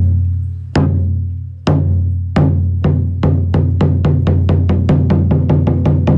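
Drops of rain water falling into a shrine's hand-washing basin, each landing as a sharp plink with a low ringing; about a second apart at first, then quickening to three or four drops a second.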